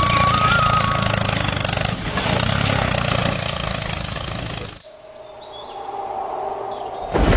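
A vehicle engine running steadily that cuts off suddenly about five seconds in. A quieter stretch follows, then a loud noise starts abruptly near the end.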